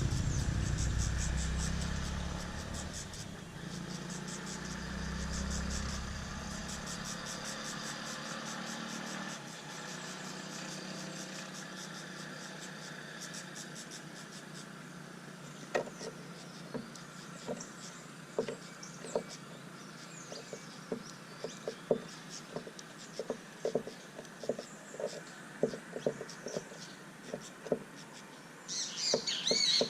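Outdoor ambience at a bird feeder. A passing vehicle rumbles for the first few seconds over a rapid, high-pitched pulsing trill. Later come irregular light taps, and near the end small birds start chirping.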